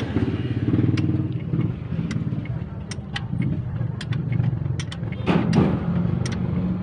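Isuzu Crosswind engine idling steadily, with scattered sharp metallic clicks and clatter from hand tools working on it.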